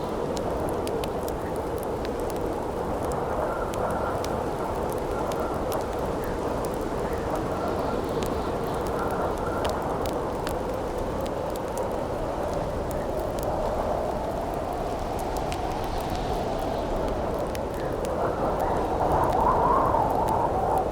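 Howling wind with a wavering, whistling tone over the steady crackle and pops of a burning campfire. A gust swells louder and rises in pitch near the end.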